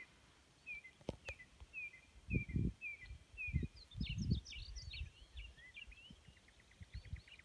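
Songbirds calling in the open: one repeats a short falling chirp about twice a second, a burst of varied song comes about four seconds in, and a fast ticking trill follows near the end. Several low thuds on the microphone, the loudest sounds, come between about two and four and a half seconds in.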